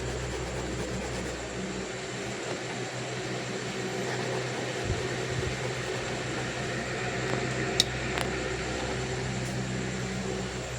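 Steady white-noise hiss with a low hum under it, and a sharp click about eight seconds in, followed by a fainter one.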